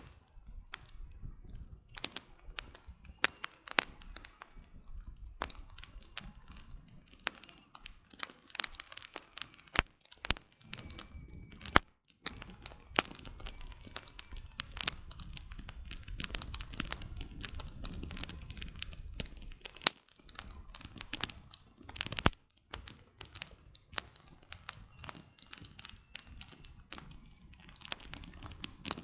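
Campfire of burning firewood crackling, with dense, irregular sharp pops and cracks over a soft low rush of the flames.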